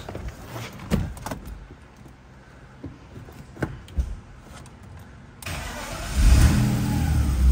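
A few knocks and clicks, then about five seconds in a BMW E46's engine is cranked and catches, running loud for a moment before settling into a steady idle. This is the first start after the power steering pump was replaced, with the car having sat for almost two weeks.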